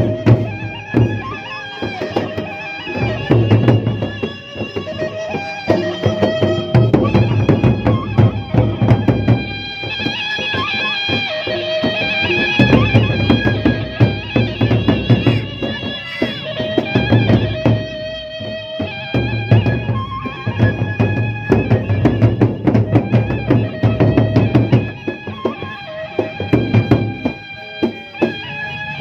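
Gendang beleq, the Sasak traditional ensemble: a bamboo suling flute plays held, ornamented melody lines over the large gendang beleq drums and busy percussion strokes, with deep drum pulses coming and going in phrases.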